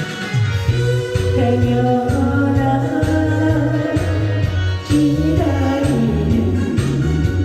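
A singer holding long, sliding notes of a trot song over a backing track with a steady stepping bass line.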